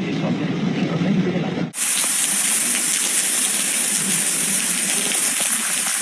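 Steady, dense rushing hiss of storm water (heavy rain and hail or runoff), starting abruptly about two seconds in. Before it there is a low rumble.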